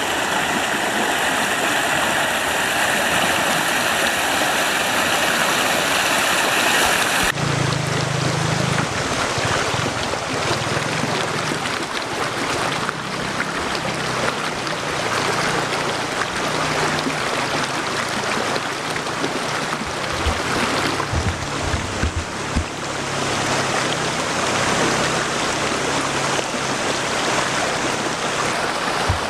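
Small waterfall: water rushing and splashing over rocks in a steady, continuous wash. The character of the rush changes abruptly about seven seconds in.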